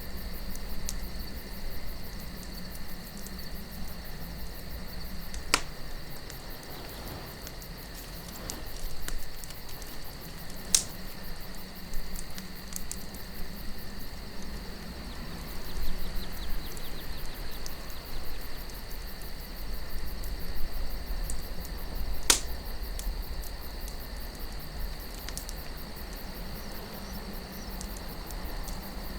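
Campfire of burning wood crackling, with three sharp pops spread through it, over steady cricket chirping and a low rumble of wind.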